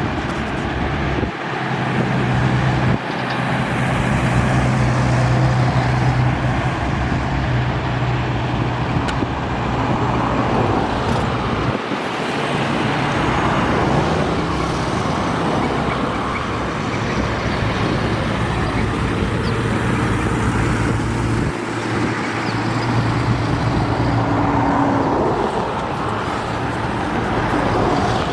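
Highway traffic of heavy trucks and cars passing close by: a continuous rush of tyre and road noise, with the steady low drone of big truck engines rising over it for several seconds at a time, twice.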